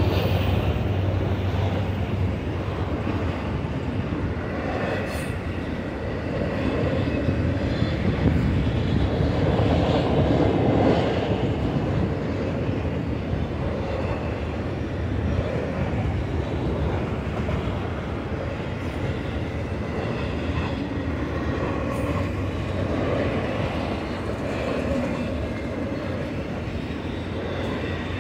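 Autorack freight cars of a passing train rolling by, with a steady noise of steel wheels running on the rails.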